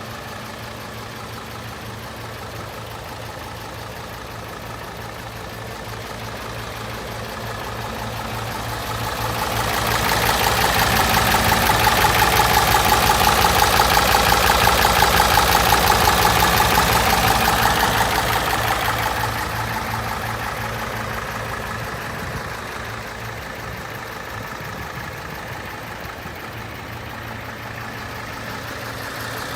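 Hino J08C straight-six diesel engine idling steadily. It grows louder and brighter for about ten seconds in the middle without any rise in engine speed, then falls back to the same idle.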